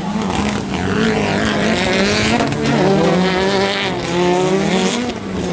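Autocross race car engine revving hard, its pitch climbing and dropping several times with throttle and gear changes.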